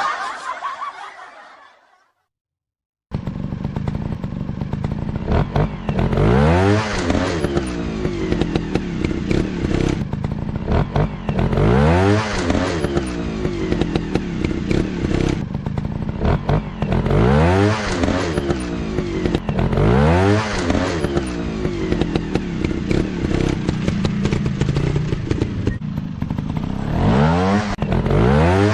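Trail motorcycle engines running hard, starting about three seconds in, the revs rising and falling again and again every few seconds as the throttle is worked.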